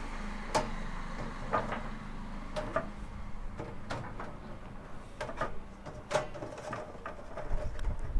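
White decorative pebbles and larger stones being set in place by hand, clicking and knocking against one another in about a dozen sharp, irregular clicks, with a duller bump near the end.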